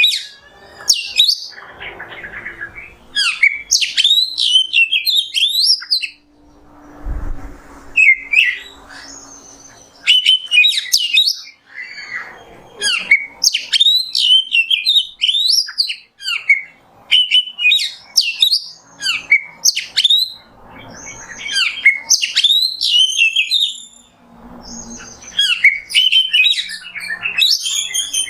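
Oriental magpie-robin (kacer) singing: loud phrases of quick, varied whistles and chirps, each a second or two long, repeated with short pauses between.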